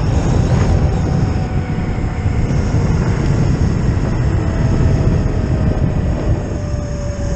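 Zero FX electric motorcycle on the move: loud wind rush over the microphone with a faint electric motor whine that slides slowly down in pitch.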